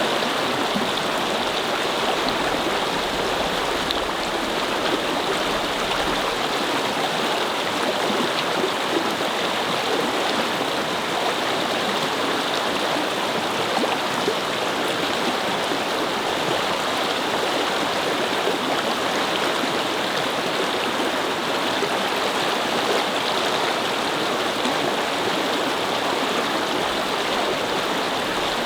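A brook babbling: steady flowing water over stones, an even rushing with small gurgles that does not change.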